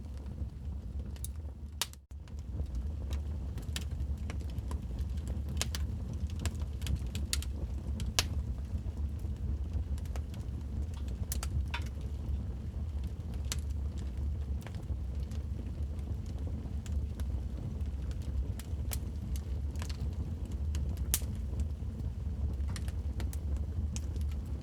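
Wood fire burning in a fireplace: a steady low rumble with irregular crackles and sharp pops. The sound dips briefly about two seconds in.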